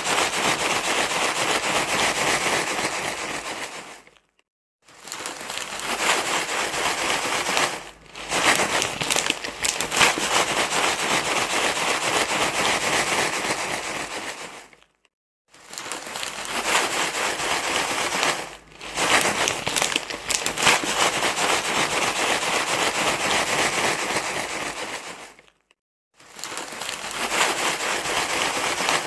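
Continuous crinkly rustling, like material being crumpled and scrunched, in long stretches of several seconds broken by three short silences.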